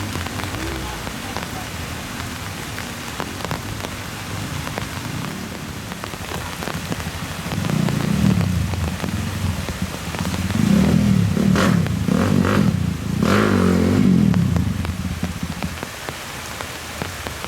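Heavy rain pattering steadily, with a louder, low rumble swelling up in the middle and fading again.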